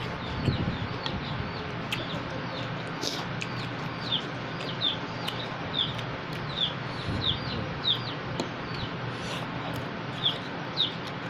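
Chicks peeping: short, high notes that slide downward, repeated about one or two a second, over a low steady hum.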